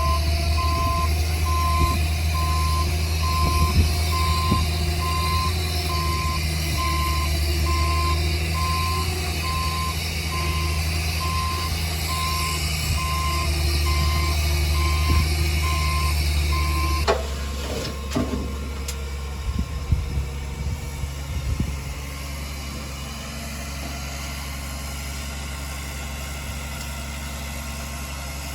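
Heavy earthmoving machine's diesel engine running under a reversing alarm that beeps steadily at one pitch. About two-thirds of the way through the beeping stops and the engine falls to a quieter idle, with a few clanks.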